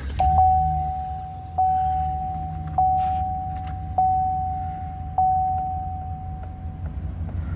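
2015 Chevrolet Silverado 2500 HD pickup engine idling steadily while the cab's warning chime dings in one clear tone about every second and a quarter, six strikes that each fade out, stopping near the end.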